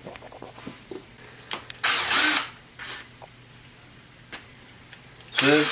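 Impact gun running in two short bursts, one about two seconds in and another near the end, with light clicks of parts being handled in between: bolts being run down on the oil pump of a VW 1.8T engine.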